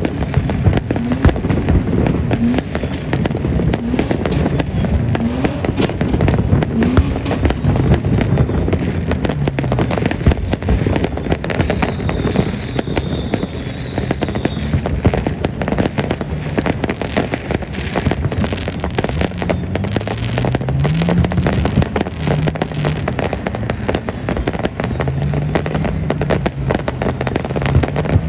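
Fireworks going off in a continuous barrage of rapid bangs and crackles, with no break.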